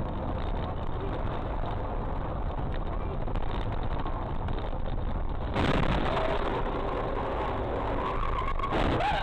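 Dashcam recording of a car driving: steady road and engine noise. About halfway through the sound changes abruptly and gets a little louder, and a brief squeal that rises and falls comes near the end.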